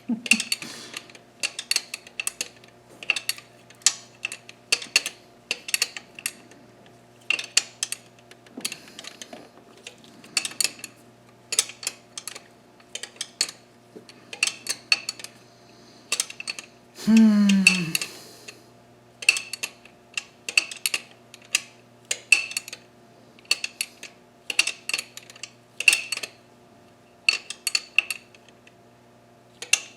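Hand ratchet clicking in short groups about once a second as nuts are worked on the engine's intake manifold, each click with a small metallic ring. A short voiced grunt, falling in pitch, about seventeen seconds in.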